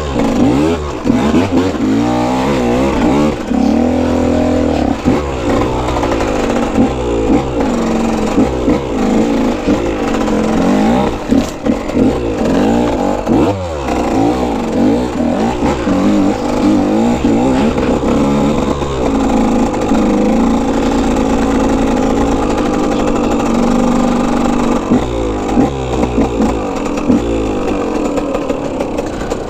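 Dirt bike engine being ridden hard, revving up and falling back again and again as the throttle opens and closes and the gears change.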